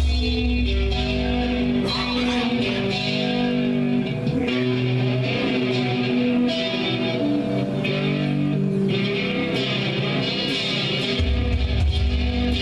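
Electric guitar played through an amp at a sound check, sustained notes and chords changing every second or so. A low drone sits underneath at the start, drops out, and returns about two seconds before the end.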